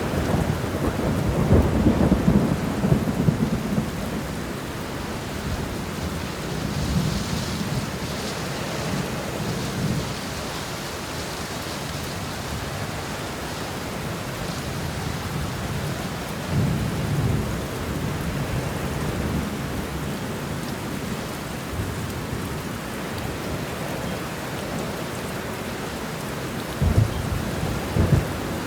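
Steady rain with rolling thunder. The thunder rumbles deeply a few times, strongest in the first few seconds, and ends in a couple of sharper low cracks near the end.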